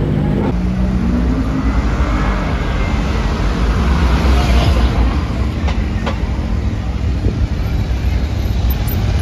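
Car engines rumbling in slow-moving street traffic, a steady low drone that swells a little about four seconds in, with two sharp clicks near six seconds in.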